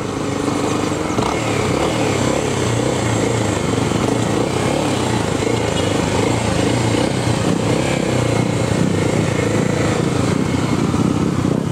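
Motorcycle engine running steadily, with no clear revving.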